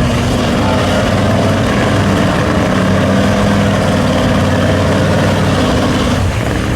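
Mud truck engines running under steady load as one truck tows a stuck truck out of the mud. The engine note shifts a little and eases off briefly near the end.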